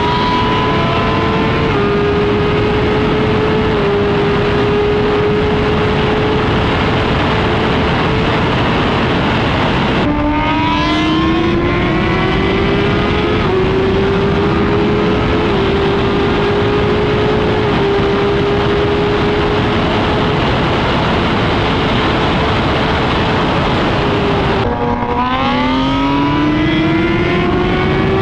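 Superbike engine, a Suzuki GSX-R1000R inline-four with an Arrow exhaust, running at a steady high pitch at highway speed under heavy wind noise. Its note dips and climbs back up twice, about ten seconds in and near the end, as the rider eases off and pulls again.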